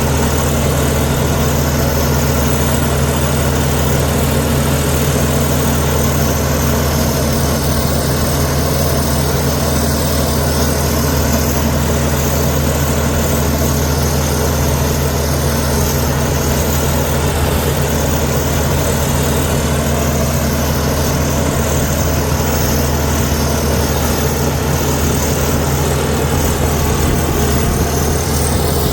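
Heavy diesel engine of a Komatsu D61EX bulldozer running steadily at a constant pitch, with a deep low hum.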